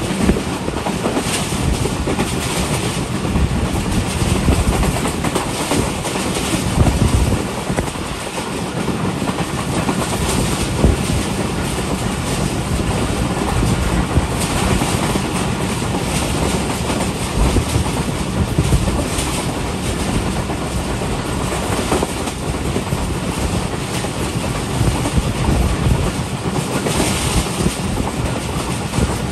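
Shalimar Express passenger train running along the track: a steady rumble with the wheels clattering over the rails.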